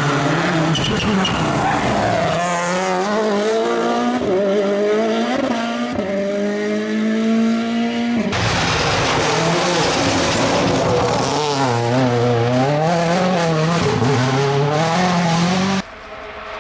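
Rally car engines at full throttle, the engine pitch climbing steadily at first. About eight seconds in, a different car takes over, its engine pitch swinging up and down with throttle lifts over a strong hiss. The level drops suddenly just before the end.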